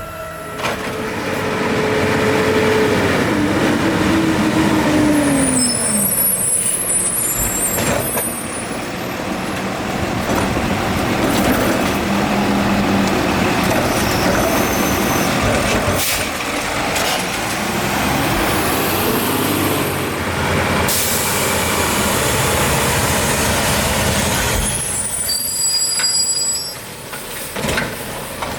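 Garbage truck at work: diesel engine running loud and steady, with a tone falling in pitch over the first few seconds. High squeals come twice, about six seconds in and again near the end.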